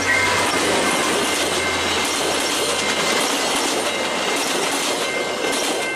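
A train passing close by at speed, with a steady rush of wheel and rail noise. Faint steady horn tones return about five seconds in.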